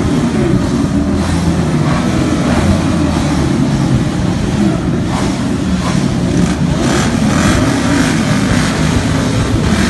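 Vehicle engines, motorcycles among them, running and revving together in a loud, rough, unbroken mix, the pitch rising and falling as the throttles are blipped.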